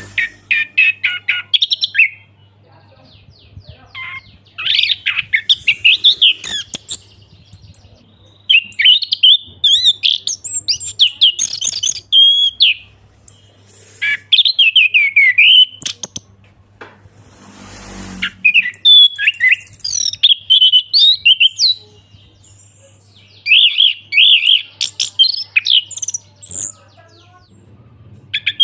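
Orange-headed thrush singing: loud, varied phrases of quick whistles and fast trills, each two to four seconds long and separated by short pauses. A faint steady low hum runs underneath.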